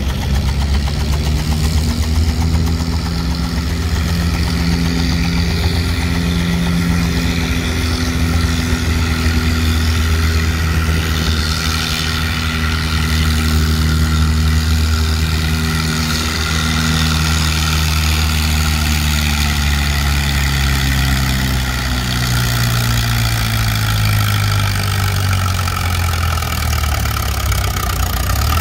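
Antique farm tractor engine running loud and steady, its pitch sagging lower over the last few seconds.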